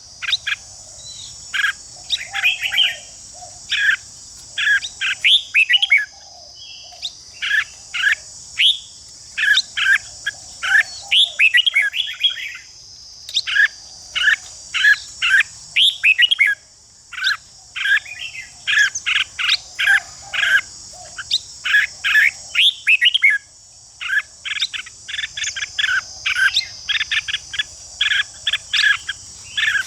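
Red-whiskered bulbuls giving harsh chattering calls and song in rapid bursts of short, sharp notes, over and over, the kind of scolding chatter played to provoke caged males into competitive singing. A steady high hiss runs beneath.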